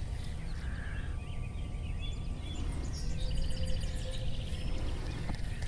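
Outdoor ambience: songbirds chirping and trilling in the background, with a rapid repeated trill about three seconds in, over a steady low rumble.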